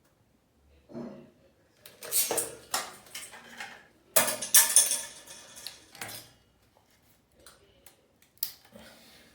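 Hard objects clattering and rattling in two main bursts, with a few lighter knocks near the end.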